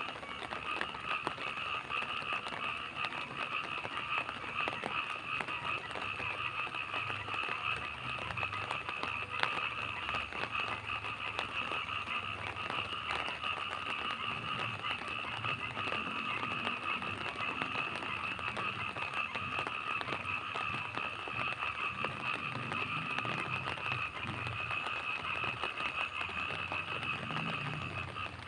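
Night rain pattering with a fine crackle, under a steady, shrill chorus of frogs and insects holding two constant pitches.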